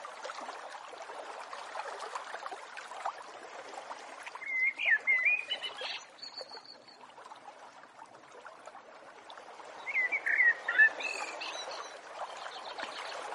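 A small bird singing two short warbling phrases over a steady outdoor hiss.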